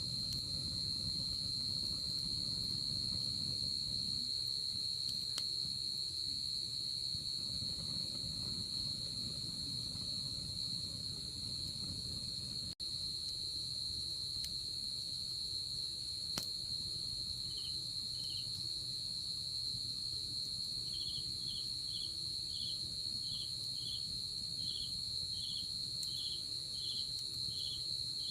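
Night insects calling, crickets among them: one steady high trill runs throughout, and from about two-thirds of the way in a second, lower chirp repeats about every two-thirds of a second. Under it sits a low campfire hiss with an occasional sharp pop. There is a split-second dropout near the middle.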